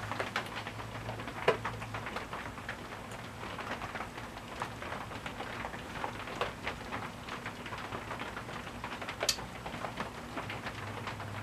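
Rain tapping irregularly outside, over the low steady running moan of a 42-inch brass Quarom ceiling fan on medium speed.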